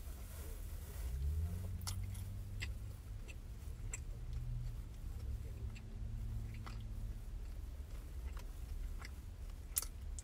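Someone chewing a mouthful of burger, with scattered soft wet mouth clicks, over a low steady rumble. A low humming tone runs through the middle, and a single sharp click sounds near the end.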